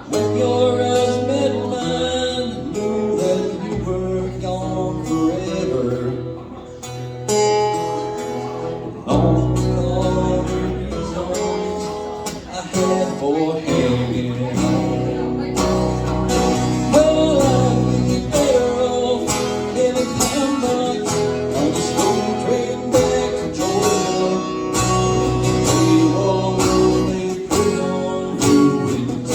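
Live country music: guitar with a steady bass line and a man singing.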